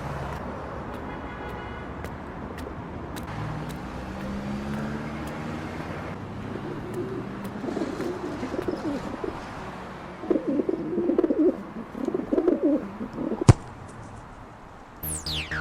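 Birds cooing in a low, wavering voice, loudest in the second half, over a steady background rumble. A single sharp click comes about two-thirds of the way in, and a quick falling sweep comes right at the end.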